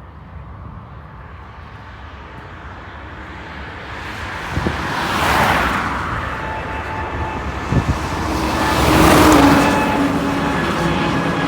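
Two road vehicles pass close by, one about five seconds in and another about nine seconds in, over the steadily rising sound of a jet airliner's engines, whose steady whine comes through near the end.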